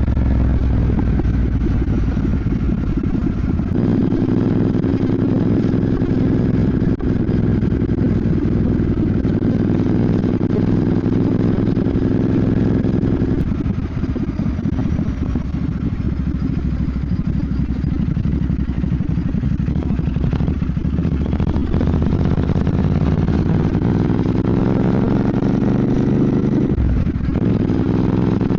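Royal Enfield Bear 650's parallel-twin engine running while riding. Its note changes a few times and rises near the end as it pulls.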